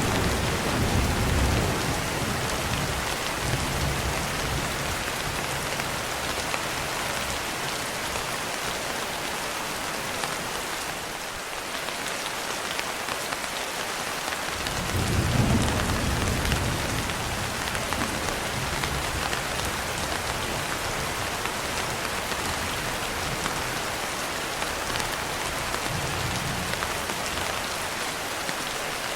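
Steady rain falling, with low rolls of thunder: one through the first few seconds, a stronger one about halfway through, and a fainter one near the end.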